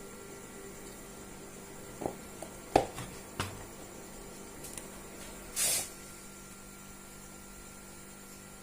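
A few sharp clicks and taps in quick succession, then a brief hiss lasting about half a second, over a steady faint electrical hum.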